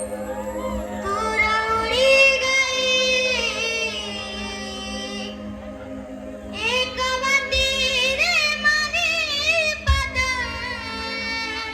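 A young child singing an Ahirani band song, amplified, over a live band's music. There are two long sung phrases with wavering, held notes and a short break of about a second between them.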